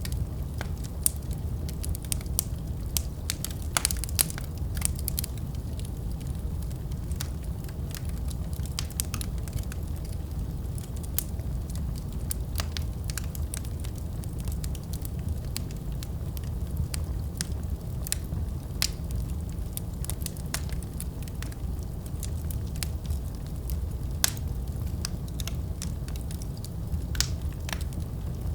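Fire burning in a fireplace: a steady low rumble of the flames with scattered sharp crackles and pops at irregular intervals.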